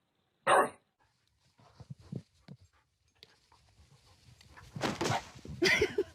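A dog barks once, loud and short, about half a second in, ending a run of barks. Fainter scattered noises follow, and louder rough bursts come near the end.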